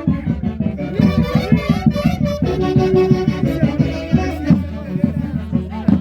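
Andean folk orchestra playing festive music with a steady beat.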